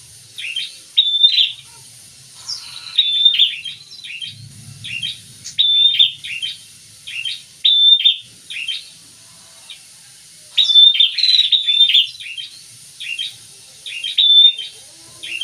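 A pair of prinias (prenjak) calling: bursts of rapid, sharp, high chirps repeating every second or two, some opening with a short level note.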